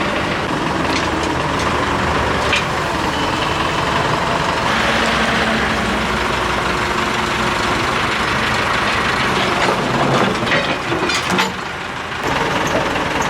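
Old excavator's diesel engine running steadily, with a few sharp knocks and clatters about ten to eleven seconds in.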